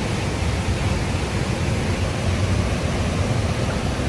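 A waterfall rushing steadily, an even roar of falling water with a deep rumble.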